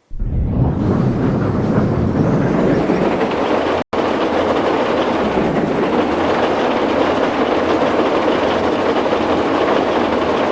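A train running close by: a loud, steady noisy rumble that starts suddenly and breaks off for an instant about four seconds in.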